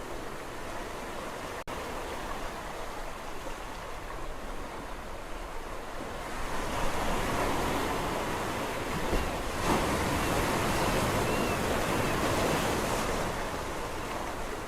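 Sea waves on a shore: a steady wash of surf that swells louder as a wave surges in from about six seconds, then eases near the end. There is a split-second gap in the sound under two seconds in.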